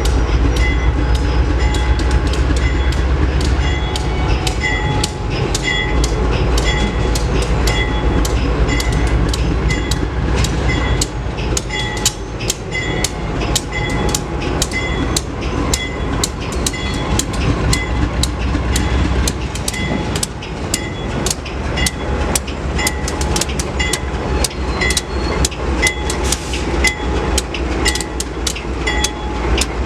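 Freight train rolling past, its wheels clacking steadily over rail joints over a continuous low rumble. A high tone pulses at an even beat about once every three-quarters of a second throughout.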